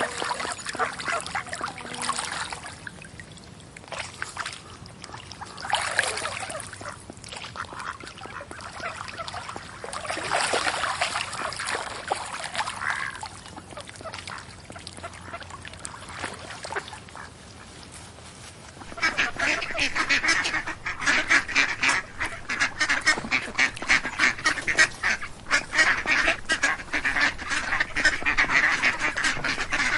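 Ducks quacking in scattered bouts. About two-thirds of the way through, the quacking turns into a dense, rapid chatter that keeps going.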